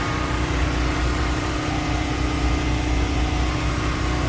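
A steady engine hum: a constant low drone with a held tone above it, running evenly throughout.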